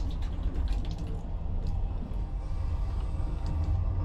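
Steady low rumble of a moving train heard from inside its small toilet compartment, with light scattered rattles and knocks from rough track.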